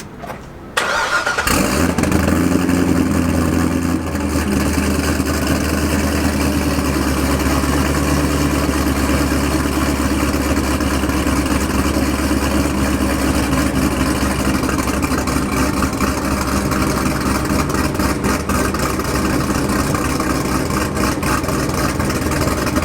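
A 2009 Corvette ZR1's supercharged 6.2-litre LS9 V8, fully built with a ported stock supercharger, cranks and catches about a second and a half in. It flares to a higher speed for a couple of seconds, then settles into a steady idle.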